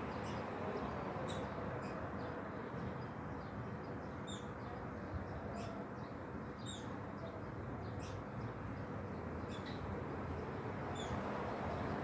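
Birds calling outdoors: short, sharp high chirps repeated every second or so over a steady low background rumble.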